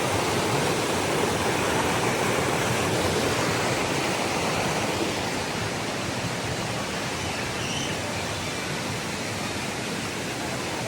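Waterfall and stream water rushing in a steady hiss, easing slightly about halfway through.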